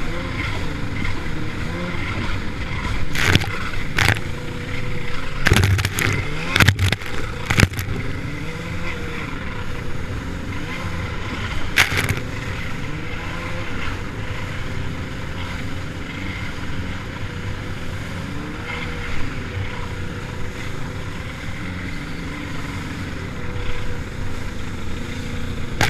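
Personal watercraft (jet ski) engine running under way, its pitch rising and falling with the throttle, with several sharp slaps, a cluster of them about six to eight seconds in.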